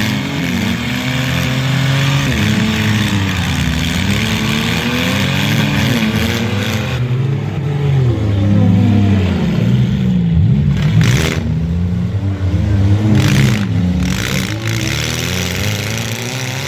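Several stripped demolition-derby car engines revving at once, their pitches rising and falling over one another throughout.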